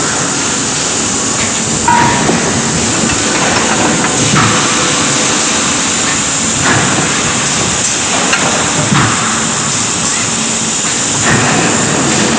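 Bar induction heating furnace line running: a loud, steady, hissing machinery noise. It swells a little about every two seconds.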